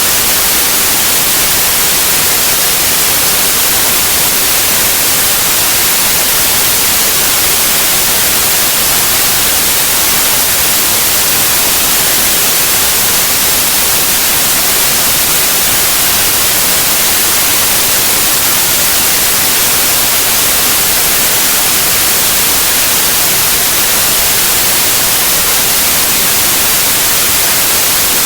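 Loud, steady white noise: an even hiss with no changes or events.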